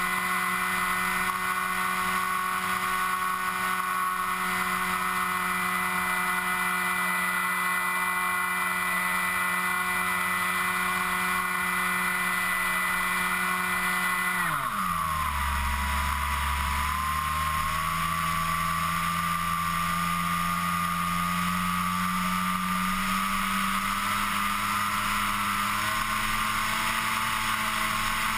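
FPV model aircraft's motor and propeller buzzing with a steady whine. About halfway through, the pitch drops sharply as the throttle comes back, then creeps slowly up again.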